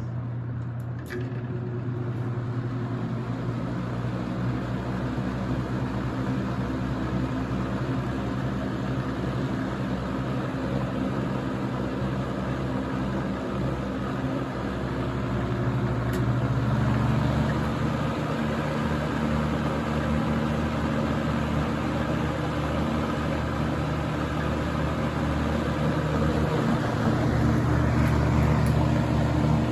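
Toastmaster model 4437 box fan running, a steady motor hum with the rush of air, getting a little louder about halfway through and again near the end. A click sounds about a second in.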